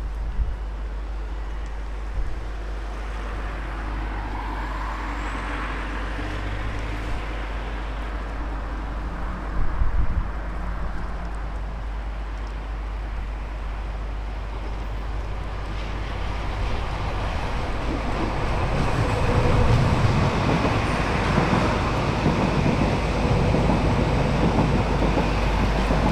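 Greater Anglia Class 755 Stadler FLIRT bi-mode multiple unit pulling away from the station, a steady running rumble that grows louder over the last ten seconds as it gathers speed. A brief loud knock comes about ten seconds in.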